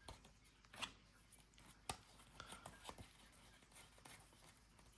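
Near silence with faint handling of football trading cards: a few soft clicks and slides as cards are flipped through a pack, the sharpest a little under two seconds in.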